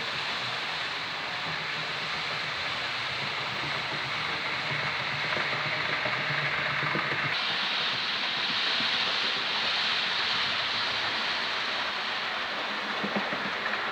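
Model railway locomotive running on the track, giving a steady hissing rattle of motor and wheels. About halfway through the sound shifts, turning brighter and losing a low hum.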